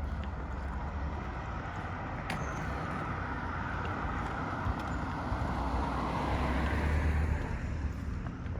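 Road traffic: a car passes along a main road, its noise swelling over several seconds and fading near the end, over a steady low rumble.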